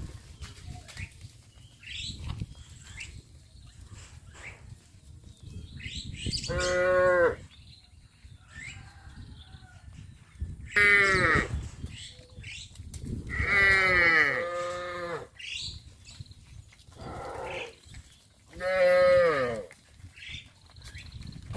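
Cattle mooing: six separate fairly high-pitched calls of about a second each, several sliding down in pitch at the end, with the last two louder.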